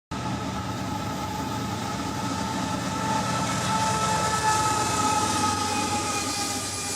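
A train running on rails: a steady rumble with two high, slightly falling tones over it.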